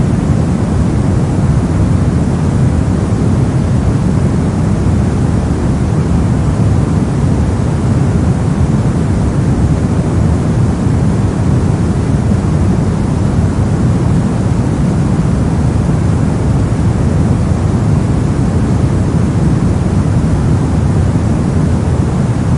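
Brown noise: a steady, deep, even hiss weighted heavily toward the low end, unchanging throughout.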